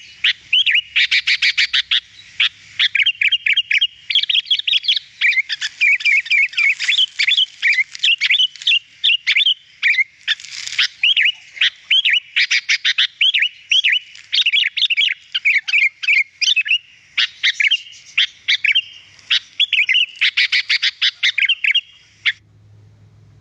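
Sooty-headed bulbul (kutilang) singing a long, unbroken run of quick, bright chirping and warbling notes, many per second, breaking off about a second before the end.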